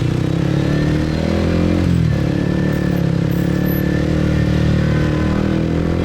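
Motorcycle engine pulling away, its pitch rising, dropping sharply at a gear change about two seconds in, then running steadily on.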